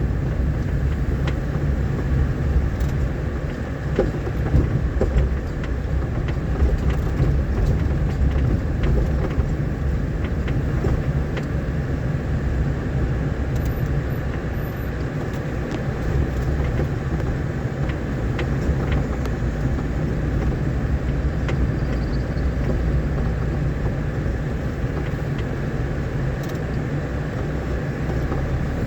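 A vehicle driving over a rain-damaged dirt road: a steady low rumble of engine and road noise, with scattered short knocks and rattles.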